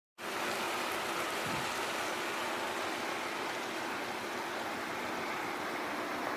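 Mountain stream water flowing steadily, an even rushing noise that cuts in suddenly right at the start.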